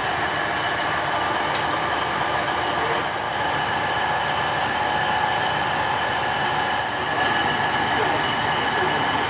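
Train running: a steady rail noise with a constant hum of several steady tones.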